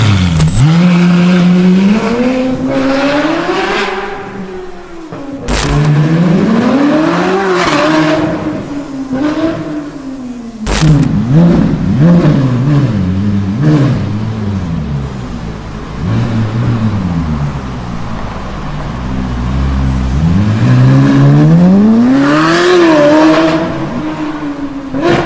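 Ferrari 458 Italia's naturally aspirated V8 through an iPE F1 valved exhaust, revving up and falling back several times in long rising and falling sweeps. Two sharp cracks sound about five and eleven seconds in.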